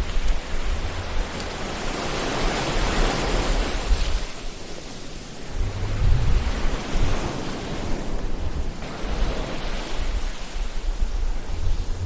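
Ocean surf: waves washing in and drawing back in a steady rushing noise with a low rumble beneath, swelling a couple of seconds in and again about halfway through.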